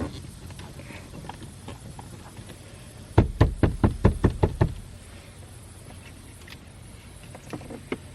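A quick run of about nine sharp plastic knocks in a second and a half, from a suction-base camera mount being pressed and worked into place on the car's dash. Lighter handling clicks come before and after.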